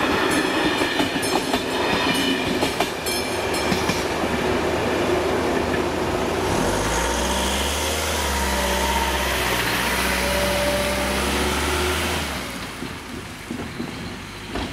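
A Czech Railways passenger train's coaches roll past with wheel clatter on the rails, which fades after about four seconds. Then a steady low engine hum runs until about twelve seconds in.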